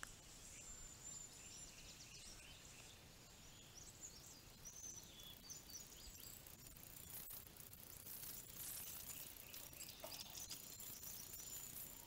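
Faint wild birds calling: scattered short, high-pitched chirps, with a thin, steady high note at the start and again near the end, over quiet outdoor background noise.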